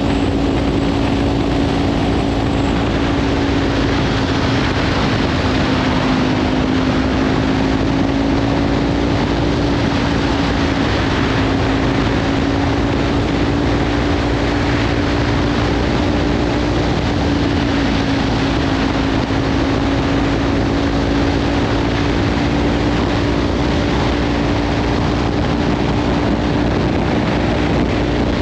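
Kawasaki Ninja 500's parallel-twin engine running through a Leovince slip-on exhaust at a steady cruise, its pitch holding nearly level with small rises and dips. Heavy wind noise on the microphone runs underneath.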